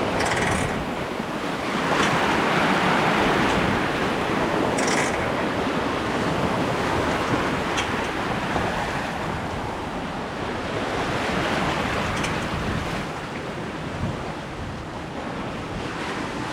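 Waves and water rushing along a sailboat's hull as it sails through choppy water, with wind buffeting the microphone. Two brief hissing splashes stand out, one near the start and one about five seconds in.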